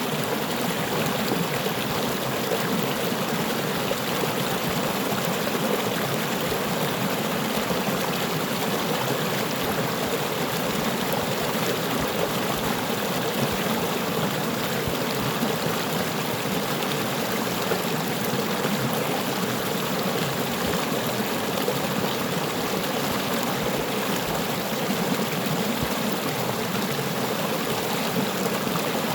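Small stream running over stones: a steady, even babble of flowing water.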